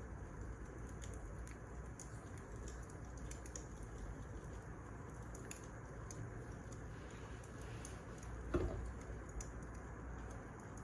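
Wood fire crackling, with small scattered pops over a steady low rumble and one louder pop about eight and a half seconds in.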